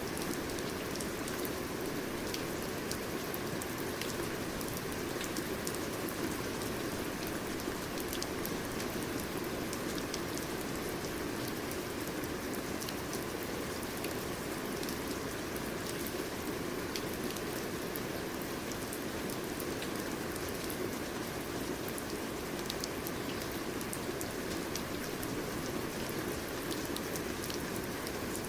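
Steady rain falling, with an even hiss and the scattered ticks of single drops hitting a surface.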